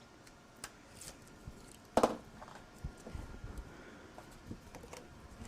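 Paper and cardstock being handled on a craft table: faint scattered clicks and rustles, with one louder short knock about two seconds in.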